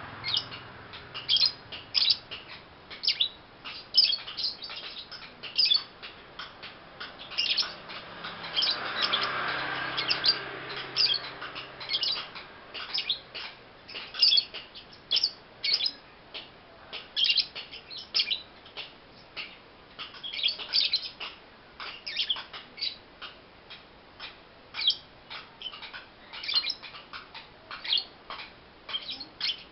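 Young pastel blue lovebird chirping: short, sharp, high chirps in quick irregular runs, several a second.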